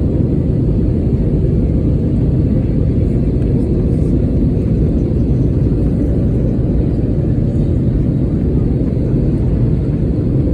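Steady low cabin roar of an airliner in flight, the engine and airflow noise heard from inside the passenger cabin.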